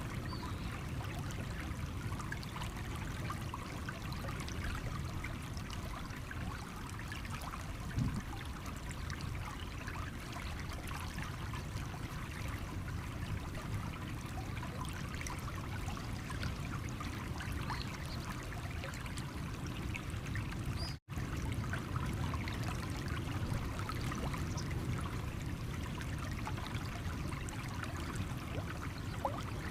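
A stream running over stones, a steady trickling and splashing of water with no change in flow. The sound cuts out completely for a split second about two-thirds of the way through.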